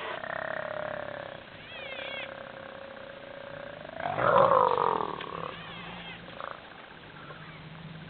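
Spotted hyenas vocalising in a squabble: one long whining call falling slightly in pitch, then a louder, wavering squeal about four seconds in.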